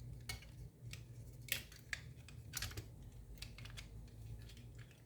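Faint, irregular clicks and taps of small plastic parts being handled, from an Xbox controller's shell and internals being fitted together, over a steady low hum.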